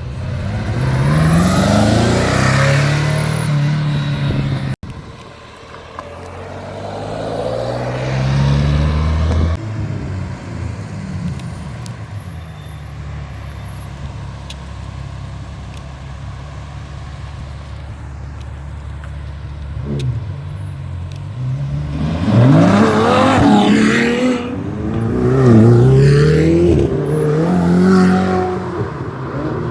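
Ferrari sports cars accelerating, their engine notes climbing through the gears in several bursts. Between the bursts, engines run steadily at low revs for about ten seconds.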